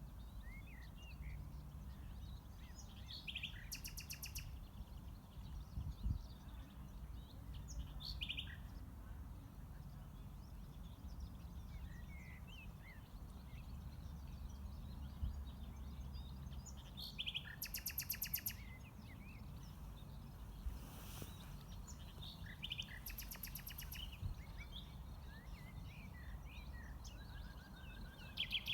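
Several wild birds chirping and singing in short scattered phrases, with three rapid rattling trills, over a steady low rumble of background noise.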